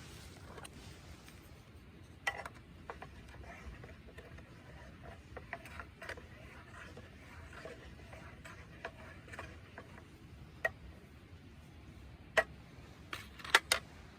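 Scattered light clicks and knocks over a faint low hum, with a few sharper knocks and a quick cluster of them near the end.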